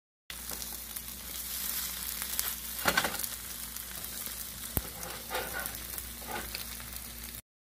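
French toast (egg-and-milk-soaked bread) sizzling as it fries in a pan, a steady hiss. A few sharp clicks and scrapes of a spatula against the pan stand out in the middle. The sound cuts off suddenly near the end.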